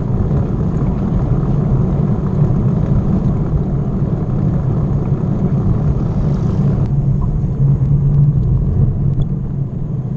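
Wind buffeting the microphone of a camera carried on a moving bicycle: a loud, steady low rumble. About seven seconds in, the higher hiss drops away abruptly.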